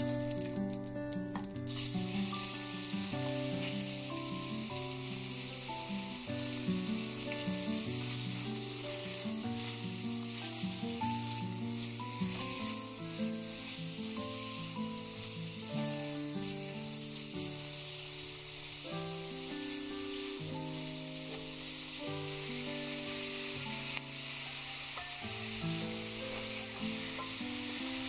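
Garlic and beef sizzling as they stir-fry in hot oil in a wok, a steady hiss. Background music with a simple melody plays over it.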